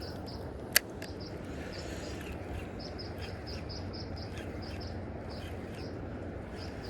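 Riverside ambience: a steady low rush of flowing river water with high chirping repeated several times a second. A single sharp click a little under a second in.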